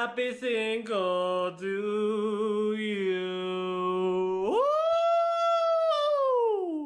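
A single voice holding long, steady notes, then rising to a higher note about two-thirds of the way through that slides down in a long falling howl and fades out near the end.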